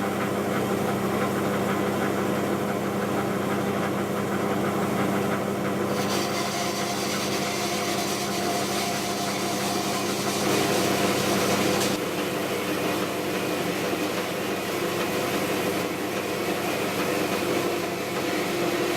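Axminster Engineer Series UE 812C metal-cutting bandsaw running at very slow blade speed and cutting through a metal bar: a steady motor hum under the hiss of the blade in the cut. About six seconds in the hiss gets louder, and around twelve seconds the low hum drops.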